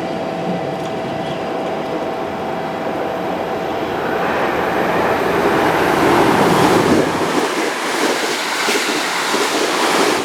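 Electric train running along the station platform. A steady tone over rail noise gives way to a louder wheel-and-rail rush that peaks past the middle.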